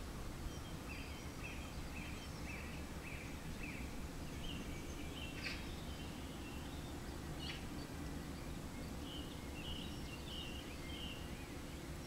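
Small garden birds calling: a run of short repeated chirps about twice a second, a pause, then a few more chirps near the end, over a steady low background rumble. Two sharp clicks come in the middle.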